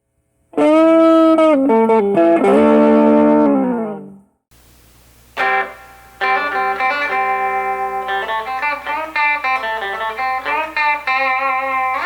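Clean electric guitar played through a Fender Stratocaster's bridge pickup with volume and its newly added tone control fully up. Ringing chords are played first; after a short break about four seconds in, a picked riff of single notes and double-stops follows.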